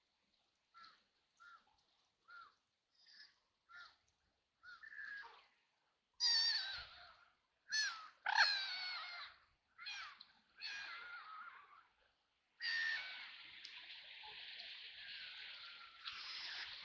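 White ducks quacking: a run of soft short quacks about every half second, then louder harsh quacks from about six seconds in. Near the end the calls run together into a long continuous harsh stretch.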